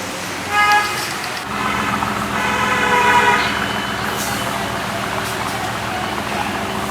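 Road traffic: a short horn honk about half a second in and a longer horn tone around the third second, over a steady engine hum that sets in after about a second and a half.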